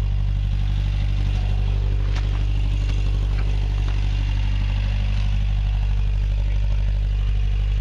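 1965 Datsun PL320 pickup's old, worn engine idling steadily, with a couple of light clicks about two and three seconds in.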